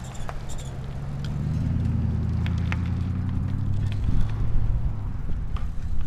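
A motor vehicle passing close by: its low engine hum builds over the first couple of seconds and fades after about four seconds, with scattered small clicks.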